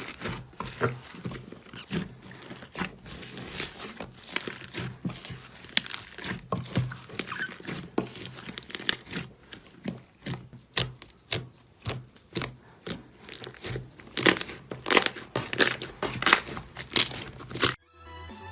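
Slime being squeezed and pressed by hand, giving a run of crackling, crunching pops that grow louder in the last few seconds. Electronic music cuts in just before the end.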